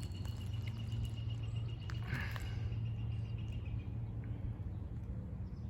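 Outdoor ambience: a steady low rumble, with a thin, steady high-pitched insect-like tone that fades out about halfway and a brief rustle about two seconds in.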